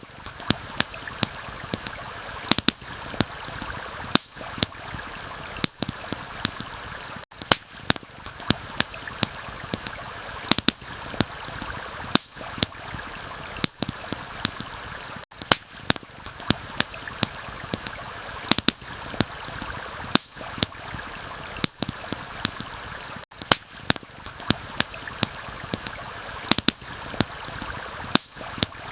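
Running stream with a campfire crackling over it, sharp pops coming irregularly, about one or two a second.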